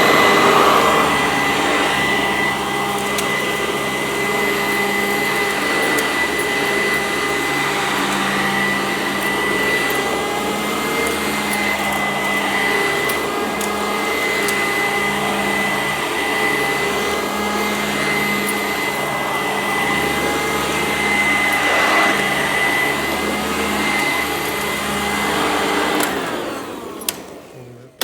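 Sanitaire SC886 upright vacuum cleaner running on carpet, with a steady high whine over a lower hum that shifts every second or two. The sound fades away near the end.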